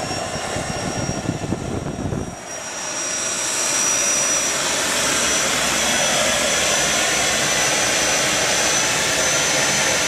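Homemade turbojet engine built from old truck parts running with a high, steady turbine whine that climbs slightly over a loud rush of exhaust. About two seconds in the low rumble drops away and the engine settles into a louder, even run.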